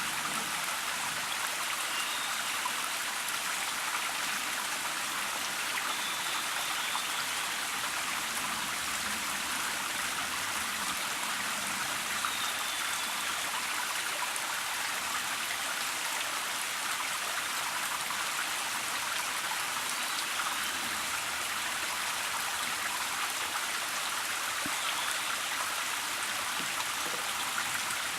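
Steady rush of running water from a small stream, with a few faint, short, high notes now and then.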